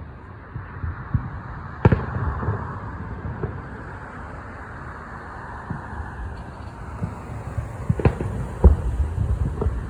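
Fireworks exploding: a sharp bang about two seconds in and several more near the end, with smaller pops between, over a low rumbling background.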